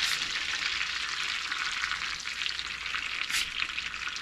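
Breaded fish cakes shallow-frying in hot butter and grapeseed oil: a steady sizzle with fine crackling as the cakes go into the pan.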